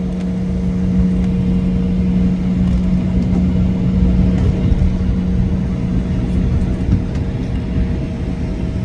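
Cabin noise of an Embraer E175 airliner rolling on the ground after landing: the steady drone of its GE CF34 turbofan engines at low power, with a constant low hum and an uneven low rumble underneath.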